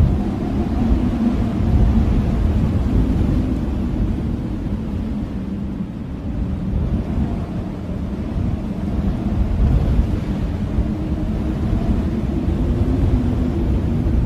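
Blizzard wind blowing hard with a deep rumble and a faint, wavering howl. The gusts swell and ease every few seconds, dipping about halfway through.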